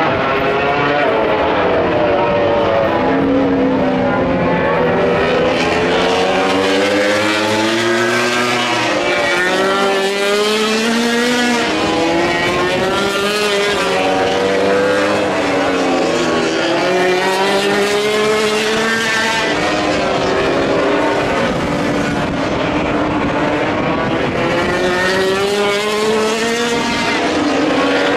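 MotoGP racing motorcycles running hard, several engines heard at once, their pitch climbing as they rev up through the gears and falling as they shift or back off, over and over.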